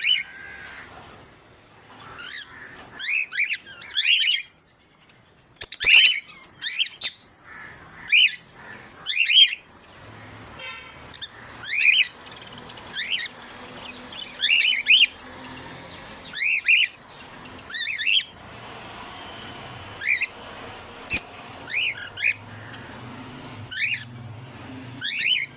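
African grey parrot whistling and squawking: a string of short calls that sweep up and down in pitch, one every second or so.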